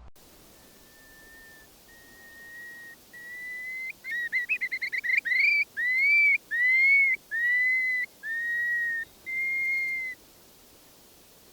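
A run of clear whistled notes: three long steady notes each a little higher than the last, a quick fluttering run, then five slurred notes that rise and fall, each about a second long.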